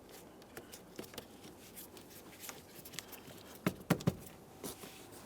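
Rubber weather seal being pressed into place on a car door: a scatter of light taps and clicks, with three sharper clicks in quick succession about two-thirds of the way through.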